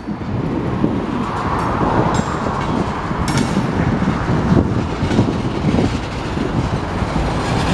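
Freight train of empty centerbeam flatcars rolling slowly past: a steady low rumble and clatter of steel wheels on the rails, with a brief high screech about three seconds in.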